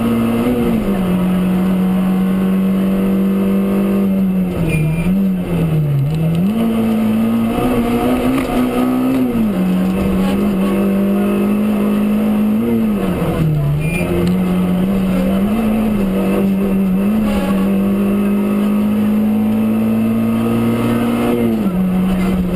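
Rally car engine running hard through a special stage. Its note holds high for long stretches and dips briefly several times as the driver lifts off or changes gear.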